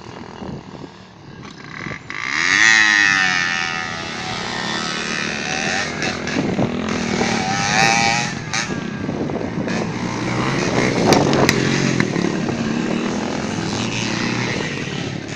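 Street motorcycle engines revving hard on a dirt race track, getting suddenly loud about two and a half seconds in, with pitch rising and falling as the bikes rev and pass, then running on steadily.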